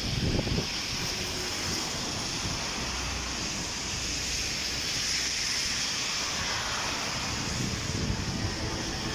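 Heavy rain pouring onto a wet street and pavement, a steady hiss, with brief low wind buffeting on the microphone at the start and again near the end.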